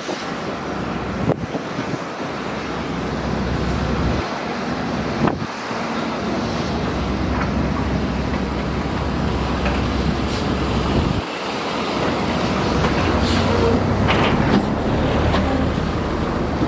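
Diesel engine of a heavy earthmoving machine working under load, a steady low rumble. Now and then there are sharp knocks and clanks.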